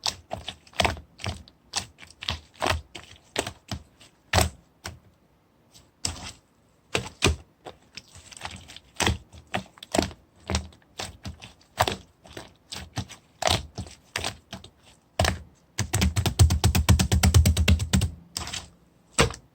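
Slime being squeezed, poked and stretched by hand, giving sharp, irregular clicking pops as air pockets burst. Near the end comes a fast run of clicks for about two seconds.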